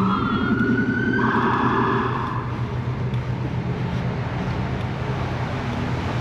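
Emergency vehicle siren wailing with a rising pitch, then cutting off about two seconds in, over steady city traffic noise.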